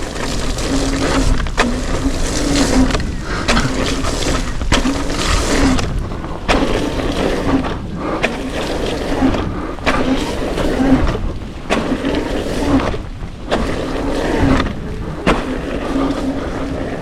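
Trail riding noise: a steady rush with frequent rattles and knocks from bumps, and a hum that comes and goes.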